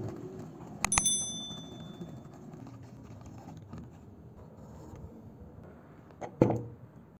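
A click, then a bell-like ding that rings for about a second, heard about a second in: the sound effect of an on-screen subscribe-button animation. Near the end there is a single loud knock as the hand drill is set down on a wooden table.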